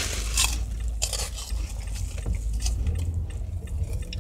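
Crunchy wheel-shaped fried Mexican snacks being bitten and chewed, giving several short crisp crackles, over the low steady rumble of a car's engine heard from inside the cabin.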